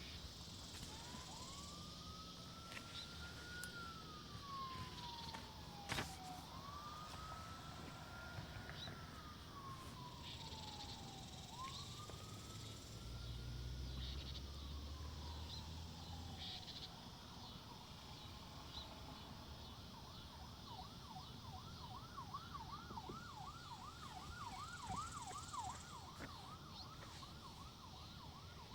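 Faint emergency-vehicle siren: three slow wails that rise and fall, then a rapid yelp for the last third or so. A single sharp click comes about six seconds in.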